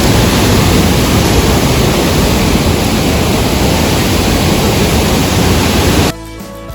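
Waterfall rushing: a loud, steady noise of falling water that cuts off suddenly about six seconds in.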